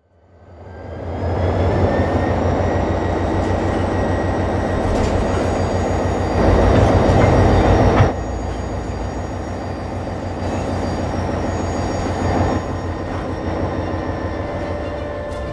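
Diesel freight train moving along the track: a low locomotive and wheel rumble with rail noise and thin, steady high-pitched squeals. It fades in over the first second, grows louder for a moment and then drops abruptly about eight seconds in.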